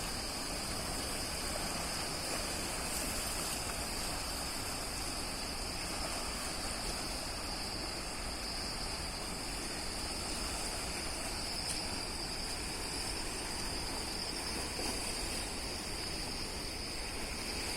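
Steady rush of flood water pouring out through the open spillway gates of a reservoir dam, with a constant high-pitched tone over it.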